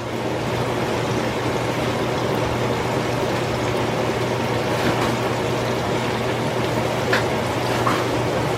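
Chicken pieces deep-frying in a pot of hot oil: a steady sizzle with a few small pops, over a steady low hum.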